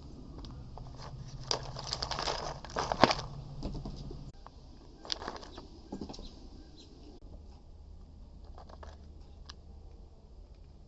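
Bird wings flapping in quick flurries, the loudest about three seconds in, followed by a few lighter flutters and soft tapping.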